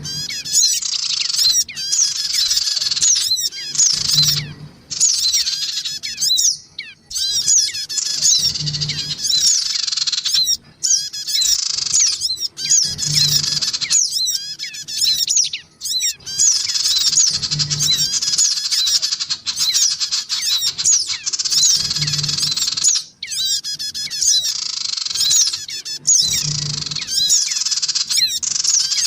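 Looped bird-lure recording of sogon birds calling noisily: a dense, nearly unbroken stream of high, fast chirps and twittering trills from several birds, adults and young. A soft low blip repeats about every four and a half seconds under the calls.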